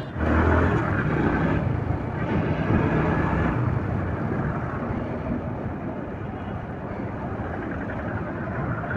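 Road traffic in a slow, crowded jam: vehicle engines running.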